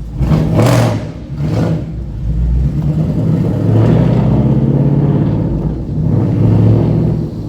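Ford Mustang 5.0-litre V8 revved hard while parked, several quick blips followed by longer, held revs, the exhaust note echoing off the gas-station canopy overhead.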